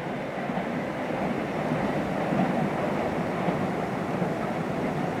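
Passenger train running past on the line, a steady rolling rumble that swells slightly midway.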